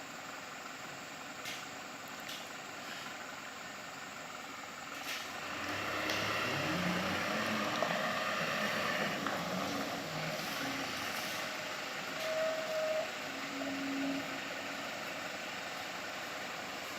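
Mitsubishi Canter light truck's engine running, growing louder about six seconds in with some rise and fall in pitch.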